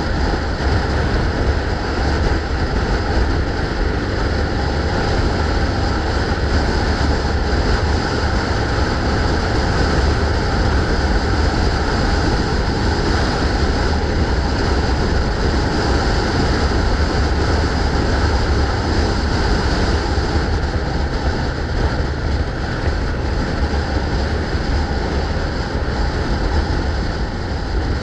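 Steady rush of wind buffeting the microphone of a moving bike, with rumbling road noise underneath.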